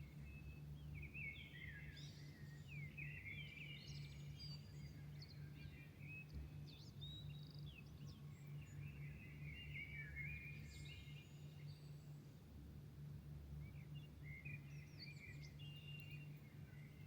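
Faint dawn birdsong: several songbirds chirping and trilling in short bursts that come and go, over a steady low hum.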